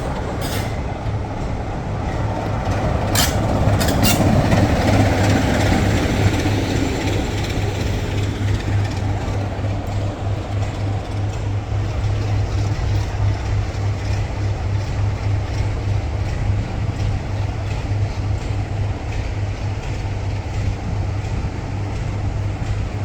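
Diesel locomotive engine running with a steady low throb, growing louder for a few seconds as the locomotive moves slowly nearby, then settling back to a steady level. There are a few sharp clicks in the first few seconds.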